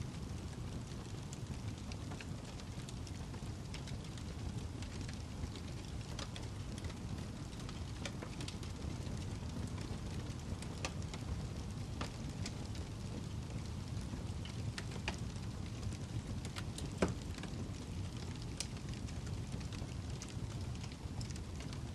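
Wood log burning in a fireplace: a steady low rumble of flames with scattered sharp crackles and pops, one louder pop about three quarters of the way through.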